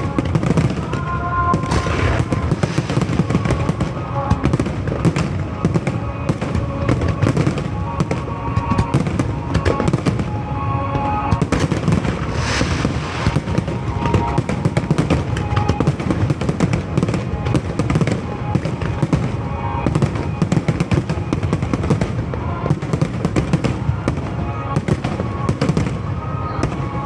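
Fireworks going off in a dense, continuous barrage of bangs and crackles, many bursts a second, with music playing beneath.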